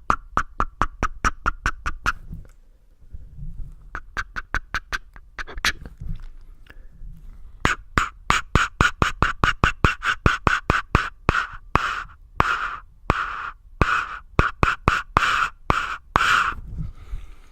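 Close-up ASMR mouth sounds: fast tongue clicks and 'tk' sounds, several a second, pausing briefly about two and a half seconds in, then quickening from about eight seconds in, with longer breathy 'tsk'-like bursts near the end.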